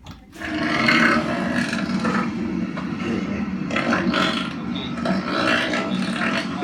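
Penguins calling loudly, a run of overlapping calls that starts about a third of a second in and goes on without a break.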